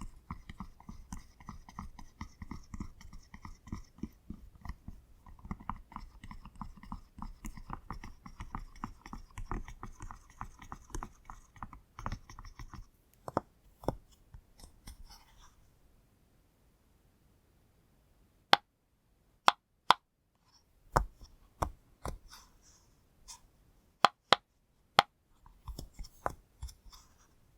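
Pop toy being popped. For about the first thirteen seconds there is a dense, rapid run of small pops. After a short pause comes a series of sharp single pops, louder and spaced about half a second to a second apart, with a quick cluster near the end.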